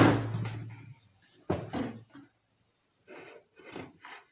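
Steady high-pitched chirring of crickets in the background, broken by a few separate clicks and knocks of hand work on wires and tools.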